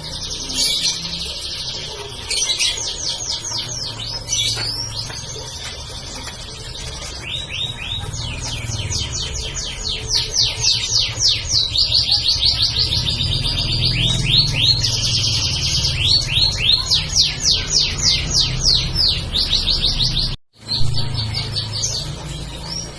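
Domestic canary singing a continuous song of fast trills and rapidly repeated sweeping notes, with the sound cutting out for an instant near the end.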